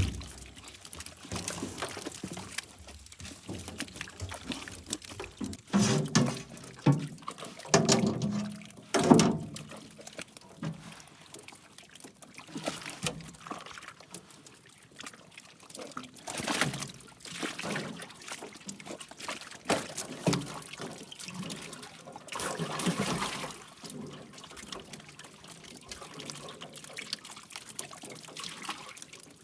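Water splashing, pouring and trickling in irregular bursts, with a cluster of louder splashes about a quarter of the way in and more past the middle.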